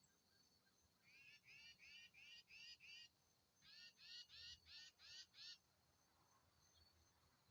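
A bird calling two quick series of short, repeated notes, about three a second, with a short pause between the series. Insects trill steadily and faintly underneath.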